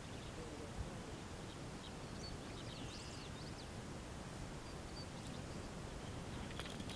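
Faint outdoor background noise with a short run of faint bird chirps about three seconds in and a few single chirps elsewhere.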